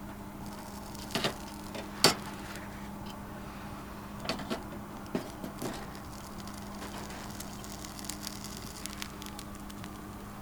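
A few scattered sharp clicks and knocks, the loudest about two seconds in, over a steady low hum.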